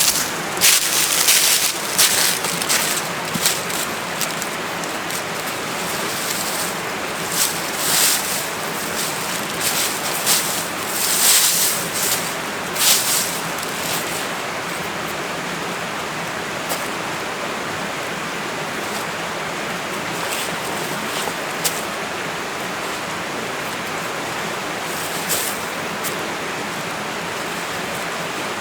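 A steady rushing noise throughout, with a run of sharp crackles and rustles over the first dozen seconds or so, then only the steady rush.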